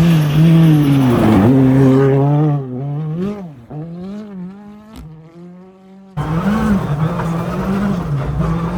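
Ford Fiesta ST rally car's engine revving hard, its pitch rising and falling as it slides on ice. About two and a half seconds in the engine note drops and fades away, then the loud engine sound cuts back in abruptly near six seconds in.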